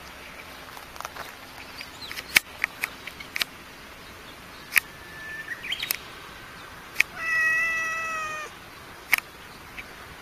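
A domestic cat gives one drawn-out, steady meow lasting just over a second, a little past the middle. Several sharp clicks are scattered before and after it, the loudest about two seconds in.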